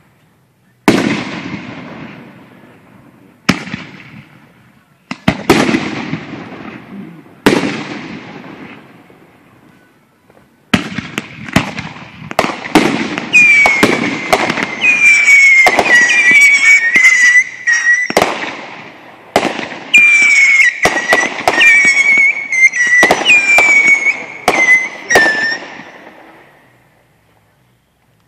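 Aerial fireworks display: single shells bang a few seconds apart, each followed by a fading rumble. About ten seconds in, a rapid barrage of bangs begins, mixed with high whistling tones that dip in pitch, and dies away near the end.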